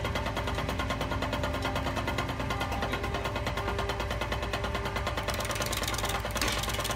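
Wood lathe running, a large wooden blank spinning with a fast, even mechanical ticking. From about five seconds in a hand-held turning tool cuts into the spinning wood, adding a rougher, hissing cutting sound as chips fly.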